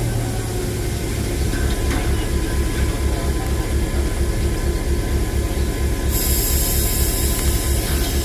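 Diesel locomotive engine running with a steady low throb. A high hiss joins about six seconds in.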